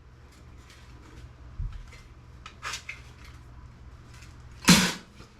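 Metal parts of a dismantled desktop computer being handled: scattered light clicks and clinks, then one loud sharp metallic clank near the end.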